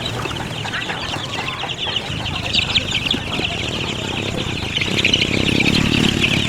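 Many chickens clucking and peeping together, a dense high chatter of short calls over a low murmur, a little louder near the end.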